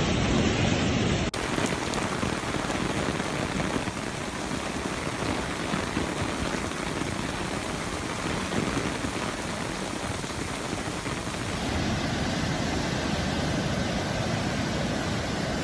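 Heavy rain pouring down, a dense steady hiss of water. Its character changes abruptly about a second in and again around twelve seconds in.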